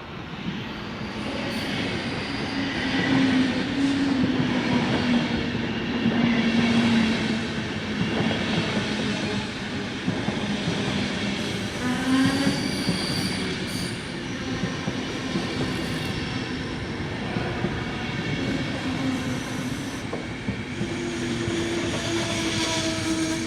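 Train moving through a station: a steady low hum with rumbling wheel noise that builds over the first few seconds, and a brief high wheel squeal about halfway through.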